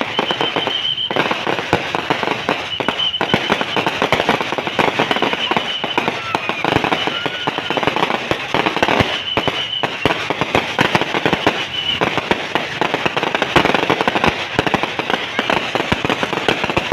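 Fireworks and firecrackers going off without a break: a dense, rapid crackling and popping of many small bursts. Brief high whistles sound several times through it.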